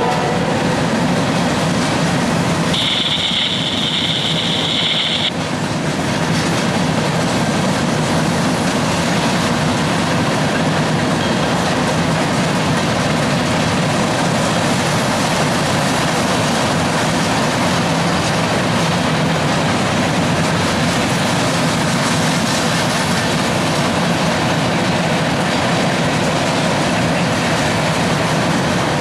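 Empty coil-steel cars of a CSX freight train rolling past, a steady loud noise of wheels on rail. About three seconds in, a high-pitched squeal sounds for roughly two seconds.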